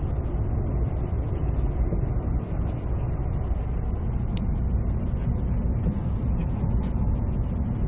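E657-series electric train running along the line, heard inside the passenger car: a steady low rumble of wheels on rail and running gear, with one brief click about four and a half seconds in.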